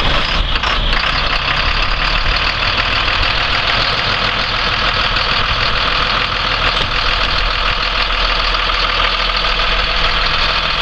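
Caterpillar C7 inline-six diesel in a Blue Bird school bus idling steadily, with a diesel clatter.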